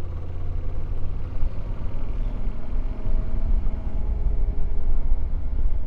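Yamaha Ténéré 700 motorcycle's parallel-twin engine running steadily on the move, under a heavy low rumble of wind on the microphone.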